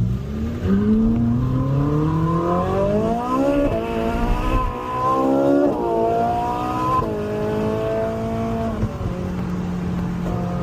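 Car engine accelerating through the gears, heard from inside the cabin: its pitch climbs and falls back sharply about three times as it shifts up, then holds steady near the end as the car cruises.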